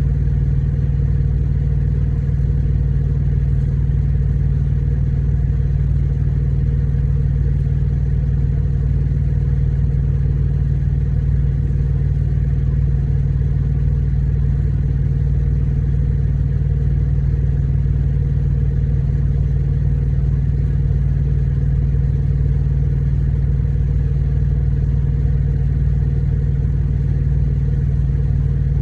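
An engine idling steadily: a constant low drone that does not change.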